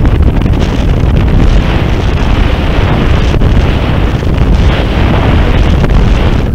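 Loud, steady wind rush buffeting the microphone of a camera mounted on a model rocket in flight.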